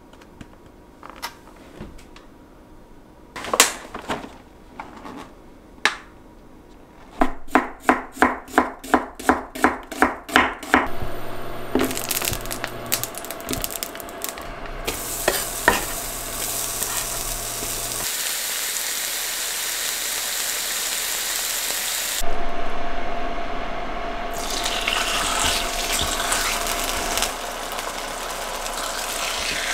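Kitchen cooking sounds: scattered clicks and knocks, then a quick, even run of about a dozen clicks, then food sizzling in a pan. The sizzle grows louder about 22 seconds in.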